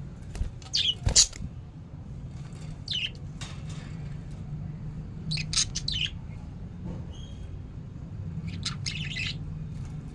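Budgerigars giving short chirps and squawks in four brief bursts, over a steady low hum.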